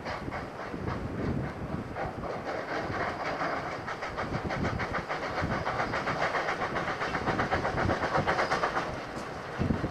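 Steam train running past, a fast, even rhythmic beat that builds and then falls away a second before the end.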